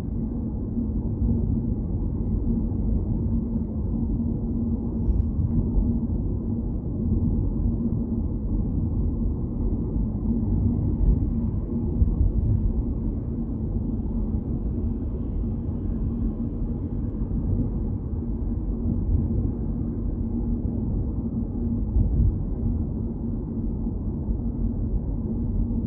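Steady low rumble of a car driving, heard from inside the cabin: tyre and engine noise with a faint steady hum.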